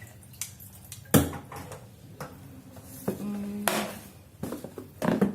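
Kitchen clatter: dishes and utensils being handled and set down, with several separate sharp knocks.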